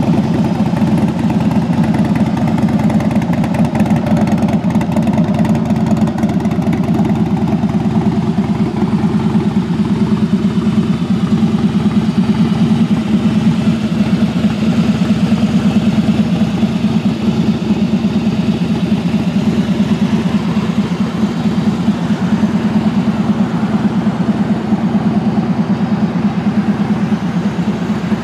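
Harley-Davidson Heritage Softail's air-cooled V-twin engine idling steadily with an even, pulsing beat.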